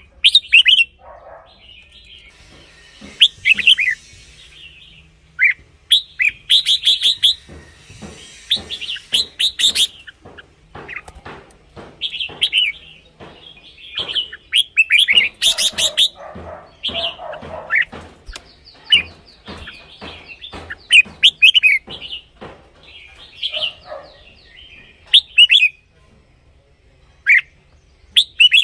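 Red-whiskered bulbul singing: short, bright chirping phrases repeated in quick bursts with brief pauses between them.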